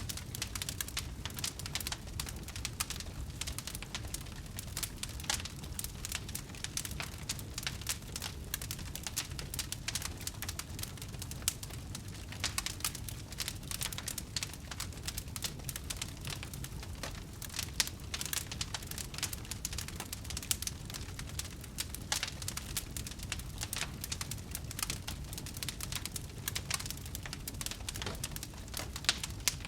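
Wood fire crackling steadily: dense, irregular pops and snaps from the burning logs over a low, steady rumble of the flames.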